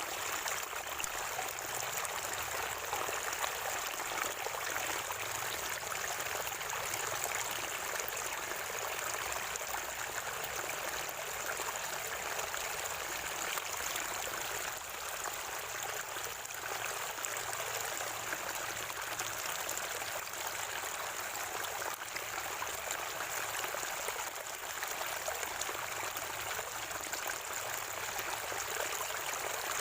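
Water from a natural spring running and trickling steadily, with a gurgling flow.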